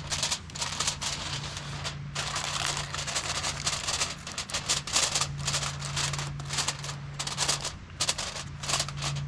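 Heavy-duty aluminium foil crinkling and crackling in irregular bursts as it is folded and crimped tightly shut around a foil-packet meal. A steady low hum runs underneath.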